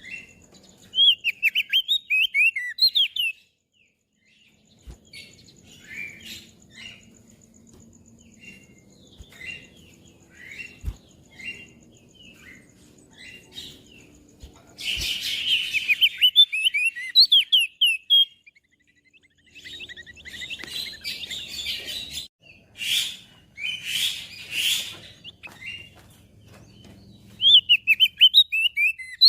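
Crested white-eye (opior jambul) singing: several bursts of fast, high twittering song a few seconds long, with quieter scattered notes in the pauses between them.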